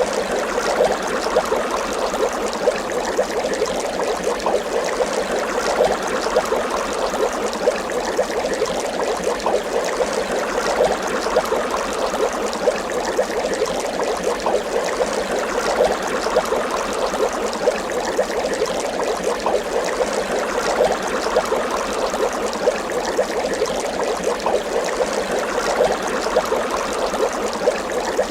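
Water bubbling steadily, a dense continuous stream of many small bubbles rising and popping.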